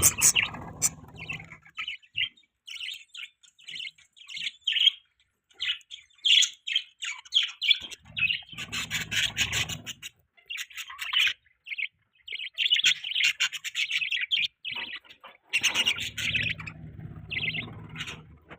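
Budgies chirping and chattering: runs of short, high chirps, growing denser and louder about eight seconds in and again near the end.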